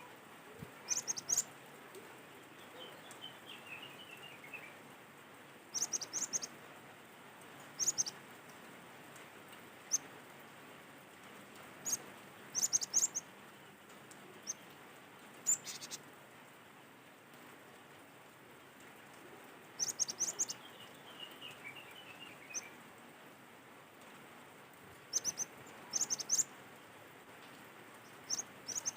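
Cinereous tit (gelatik batu) calling in short, quick bursts of high chirps that come back every two to three seconds. A fainter falling run of notes is heard twice, about three seconds in and about twenty seconds in.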